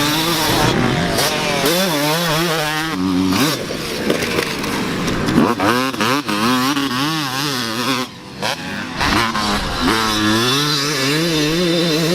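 Dirt bike engines on a motocross track, revving up and backing off over and over so the pitch keeps rising and falling, with more than one bike heard at once.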